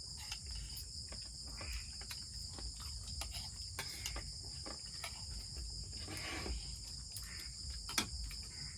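Steady, high-pitched chorus of night insects such as crickets, with scattered small clicks and knocks and one sharp click near the end.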